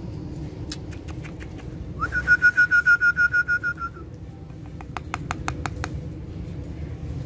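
Indian ringneck parrot calling: a few sharp clicks, then a rapid string of short, evenly repeated notes at one steady pitch for about two seconds, and another quick cluster of clicks a second later.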